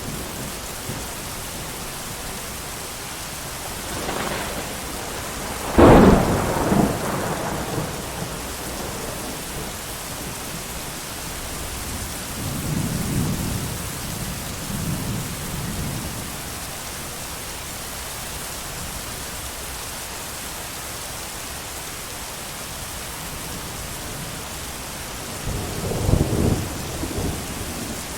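Steady heavy rain with thunder: a sharp, loud thunderclap about six seconds in that rolls off over a couple of seconds, then softer rolling rumbles around the middle and again near the end.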